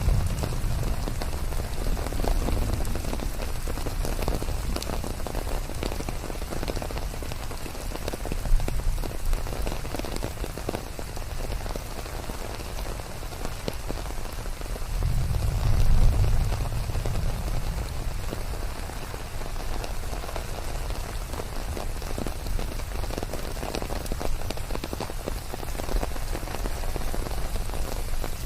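Steady rain pattering on leaves, with many separate drops ticking. A low rumble swells up and fades away a little past halfway.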